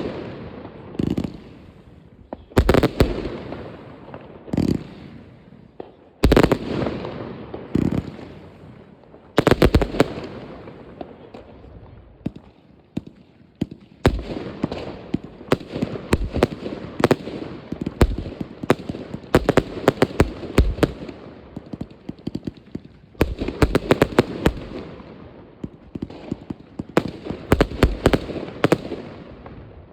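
New Year's Eve fireworks: repeated bangs of aerial shells and firecrackers, some in quick crackling runs, echoing between the blasts.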